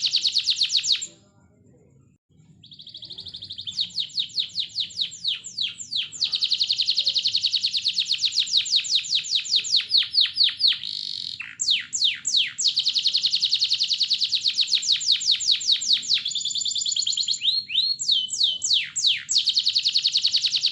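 Canary singing: fast trills of high, downward-sweeping notes, broken by a short pause about a second in, then long rolling phrases that change speed and pitch.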